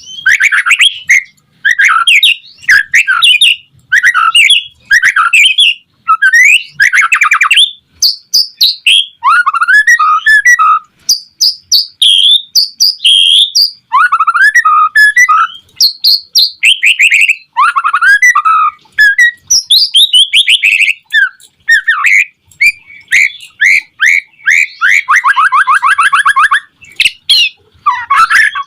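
White-rumped shama singing energetically: a long run of varied loud phrases of whistles, chirps and fast rattling trills with brief pauses between them.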